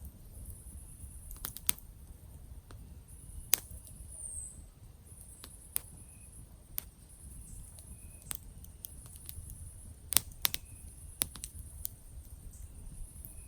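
Wood campfire crackling, with sharp irregular pops, a few of them loud, about ten in all. Behind it runs a steady high trill of night insects.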